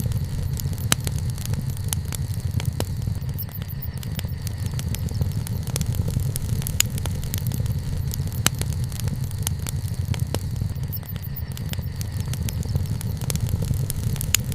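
Wood bonfire burning, with frequent sharp pops and crackles at irregular intervals over a steady low rumble.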